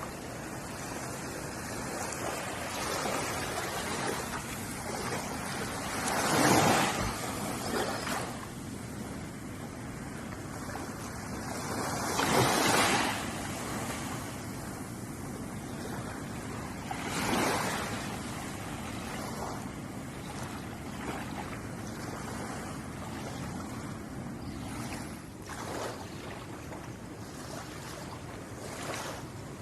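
Small ocean waves washing onto a shore in an even hiss, with three louder breaks about six seconds apart in the first two-thirds and smaller ones near the end.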